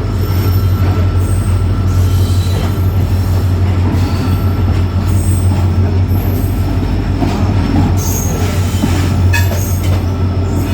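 Passenger express train running past, a steady heavy rumble with short high-pitched squeals from the wheels scattered throughout.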